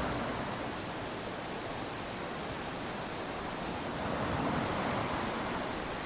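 Small waves lapping onto a sandy beach, a steady wash of surf with one wave swelling in about four seconds in.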